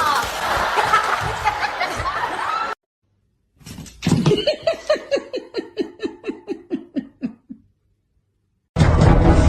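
A person laughing in a long run of short, evenly spaced ha-ha pulses, about four a second, slowly falling in pitch. Before it, a burst of noisy sound with shifting voice-like pitches cuts off suddenly; near the end another clip starts abruptly with a steady hum.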